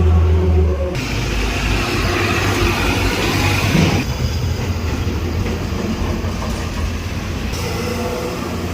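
A heavy vehicle running on the road: a steady low engine hum with rushing road noise. The sound changes abruptly about a second in and again about four seconds in.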